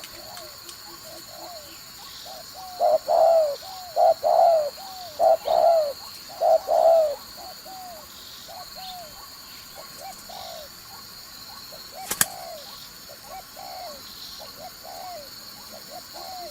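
Spotted dove decoy cooing. About three seconds in it gives four loud cooing phrases over roughly four seconds, then softer coos carry on. There is one sharp click a little after twelve seconds.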